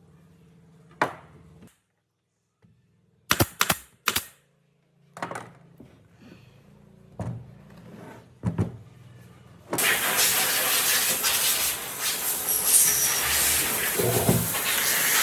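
A few separate sharp knocks, then about ten seconds in a power tool starts up and runs loudly and steadily.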